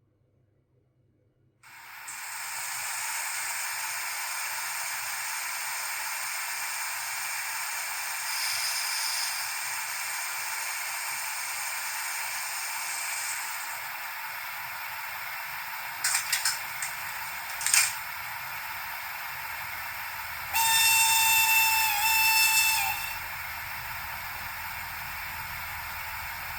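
Sound functions of a Minitrix BR 103.1 N-scale model locomotive's sound decoder, played through its small loudspeaker: a steady hiss starts after a moment of silence, a few short sharp squeaks come past the middle, and near the end a horn sounds one steady blast of a couple of seconds.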